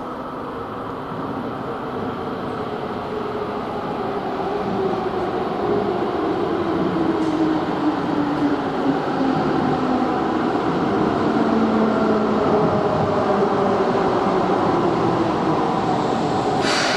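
Keihan 6000-series electric commuter train running into an underground station platform, growing steadily louder as it approaches, its motor whine falling in pitch as it brakes. A brief sharp hiss comes near the end.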